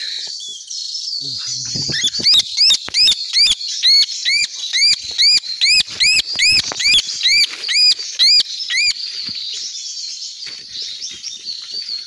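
A cililin bird, just caught by hand, calls loudly and rapidly: a run of arched, squealing notes at about two and a half a second for some seven seconds. Under the calls are rustling leaves and handling knocks.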